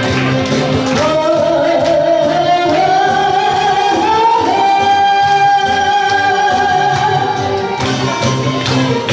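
A singer holds one long note that glides upward and then stays steady, over a band backing track; the track's regular beat drops back in near the end.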